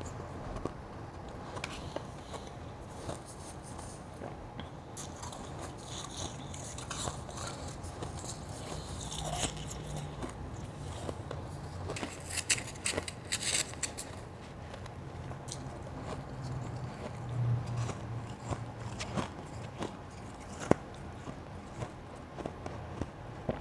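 Crushed ice being bitten and chewed, soft blended and shaved ice made from spring-water ice cubes, giving irregular crunches with a dense run of crackling crunches about halfway through.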